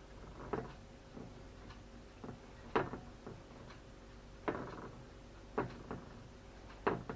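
Soft, irregular taps and knocks, about five in seven seconds, as a breaded Quorn fillet is pressed and patted by hand in a bowl of breadcrumbs, over a faint steady hum.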